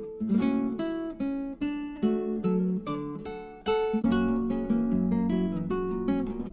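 Background music: acoustic guitar playing a run of plucked and strummed notes and chords, the last chord ringing out near the end.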